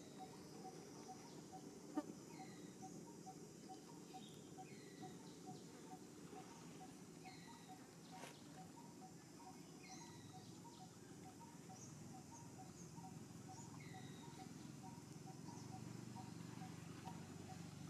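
Faint outdoor ambience with small birds chirping: short falling notes every second or two, over a soft steady ticking about four times a second. A single sharp click about two seconds in.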